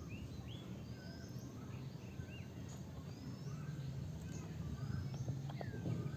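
Outdoor ambience: several small birds chirping again and again over a steady low rumble, with a few faint clicks near the end.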